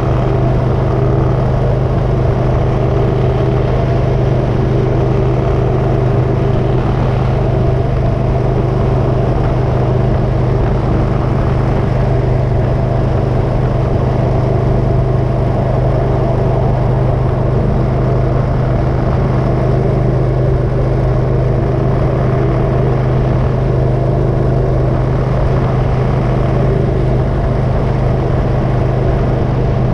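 Motorcycle engine running at a steady, unchanging speed, a constant low hum under a steady rush of road noise.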